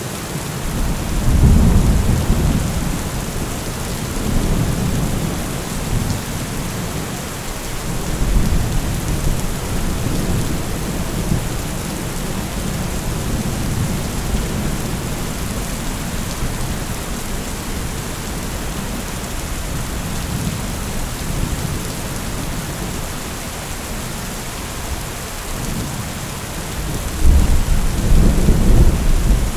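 Heavy rain falling steadily, with rumbles of thunder that swell about a second in, again briefly near the middle, and most strongly near the end.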